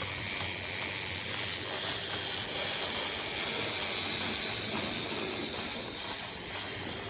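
Small battery motor of a Tomy Spencer toy train running, a steady high whirring hiss as the engine drives the toy turntable.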